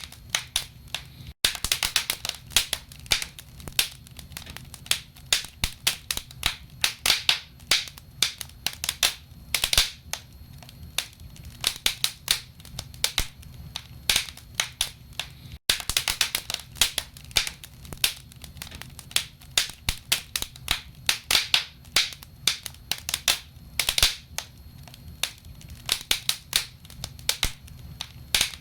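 Wood fire crackling in a fireplace: dense, irregular pops and snaps of burning logs, several a second, over a low steady rumble.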